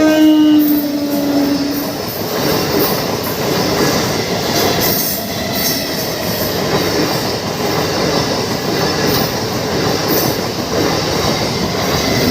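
A MEMU electric multiple-unit train passes close by. Its horn ends about two seconds in, dipping slightly in pitch, and then the steady rumble and clatter of its wheels on the rails carries on.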